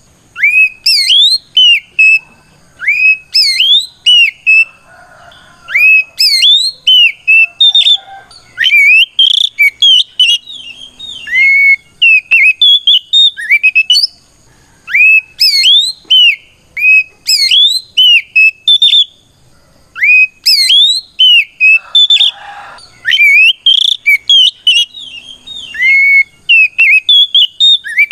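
Oriental magpie-robin singing a loud, clear whistled song of rising and falling notes, in phrases of a few seconds with short pauses between them. This is the bold 'ngeplong' fighting song, a challenge call to a rival male.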